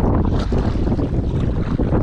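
Steady wind buffeting the microphone, a heavy low rumble out on open water.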